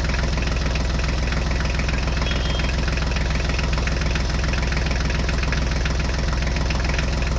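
Tractor engine running steadily at an even speed, with a fast regular knocking beat and no change in pitch or loudness.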